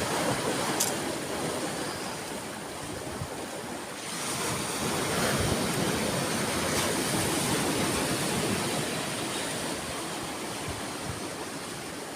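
Ocean surf: waves washing onto a beach in a steady rush, one wave swelling louder about four seconds in and easing off again.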